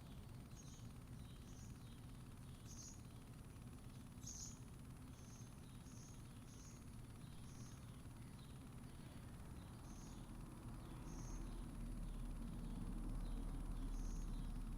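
Faint backyard ambience: small birds chirping, short high chirps repeating about one or two a second. Under them are a thin steady high whine and a low rumble that swells in the second half.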